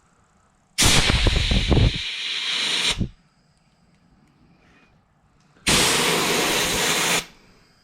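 Two blasts of compressed air from a blow gun, about two seconds and one and a half seconds long, hissing loudly with a rumble in the first, blowing out carburetor passages.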